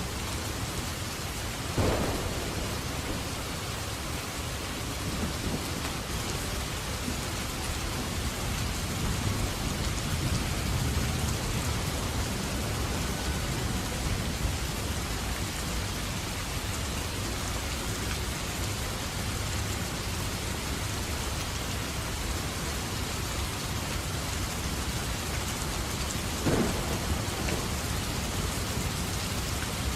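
Steady rain falling during a thunderstorm, with thunder rumbling low in the middle. Two brief sharp cracks stand out, one about two seconds in and one near the end.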